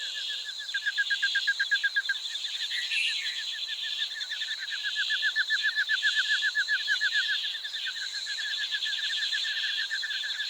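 Tropical forest chorus: a rapid trilling call repeating about ten times a second, over a steady high-pitched buzzing drone.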